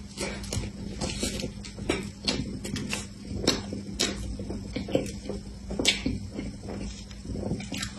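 Close-up mouth sounds of someone biting into and chewing a soft cream-filled bun: irregular wet smacks and clicks of lips and tongue, several to a second.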